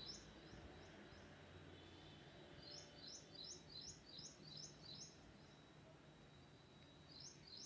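Faint small bird chirping in the background: quick repeated chirps, two or three a second, coming in runs of a few seconds with gaps between them. Under it, near-silent room tone with a faint steady high tone.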